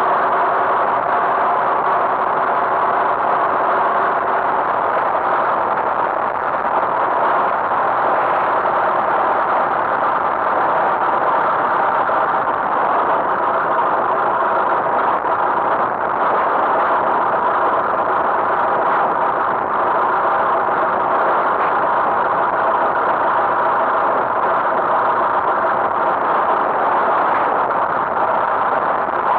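Tractor engine running steadily under way, a continuous even drone with no change in pace.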